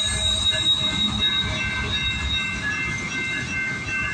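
Loaded freight train of ethanol tank cars rolling past at a level crossing: a steady heavy rumble of wheels on rail, with thin high-pitched squealing tones from the wheels over it.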